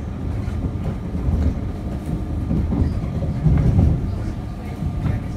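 Train running along the track, heard from inside a carriage: a steady low rumble with faint steady tones and scattered clicks from the wheels, swelling briefly about three and a half seconds in.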